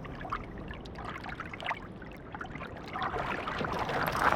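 Shallow river water running and splashing, with short splashes throughout and growing louder about three seconds in.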